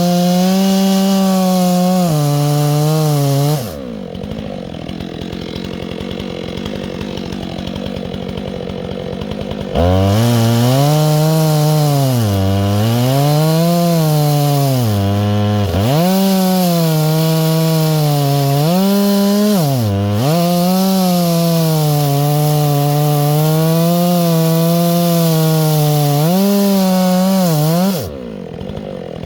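Chainsaw revving high, dropping back to idle for about six seconds, then running hard again with its pitch dipping and recovering several times as it bogs in the cut. It falls back to idle near the end.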